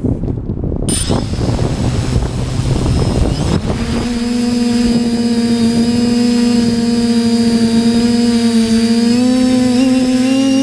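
Rough wind buffeting on the microphone, then from about four seconds in the TBS Discovery quadcopter's electric motors and propellers hum steadily. The pitch of the hum rises a little near the end.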